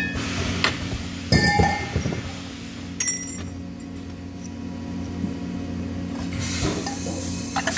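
Metal parts clinking and knocking against each other several times, in a cluster a little over a second in, once at about three seconds and again near the end, over a steady low hum.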